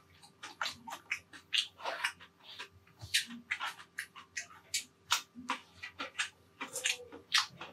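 Close-miked eating sounds: irregular wet smacks and crunches of a mouth chewing food, several a second.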